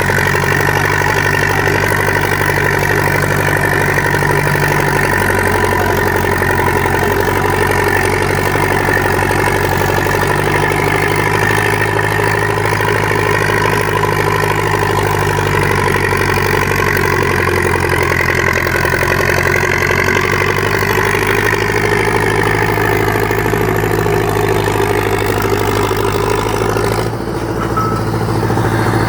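International Super WD-9 tractor's four-cylinder diesel engine running steadily, its pitch wavering slightly, with a brief dip in level near the end.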